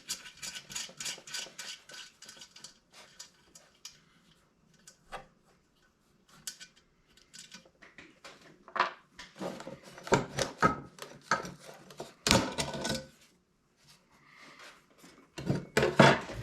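Tools and metal parts clinking and knocking as a diesel heater is unbolted and taken apart: scattered sharp clinks, a quiet pause of a few seconds in the middle, then more knocks with a louder one near the end.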